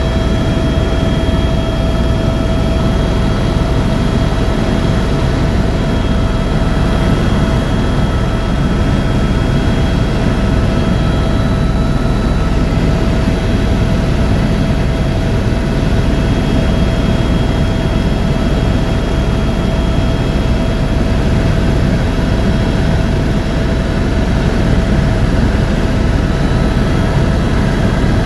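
Helicopter in flight: a steady, loud drone of engine and rotor with constant high-pitched whine tones running over it.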